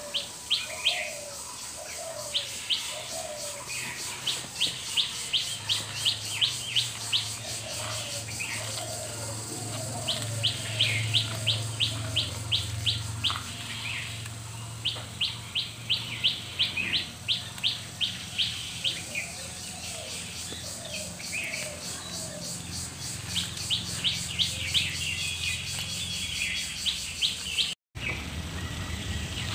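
Birds chirping: repeated runs of quick, sharp, high chirps, several to a second, with lower, softer calls in between.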